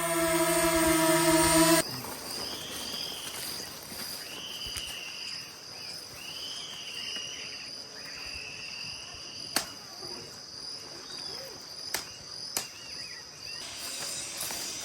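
A steady droning hum with many overtones stops abruptly about two seconds in. Forest ambience follows: a continuous high insect trill, a run of short, repeated arching calls over the next several seconds, and a few sharp clicks.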